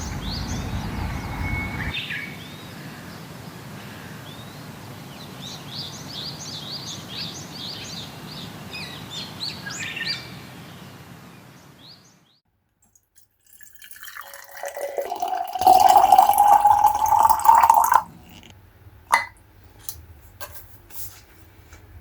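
Small birds chirping and singing in quick short notes over a steady background hiss for about the first twelve seconds, then fading out. After a short pause, a loud noisy sound with a rising whine runs for a couple of seconds and cuts off sharply. A few scattered clicks follow.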